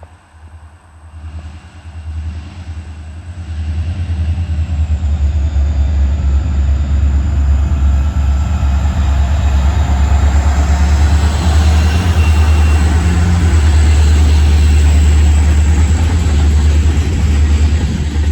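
Freight train on the SWP Railroad approaching, its low diesel rumble building over the first few seconds, then running loud and steady as it goes by.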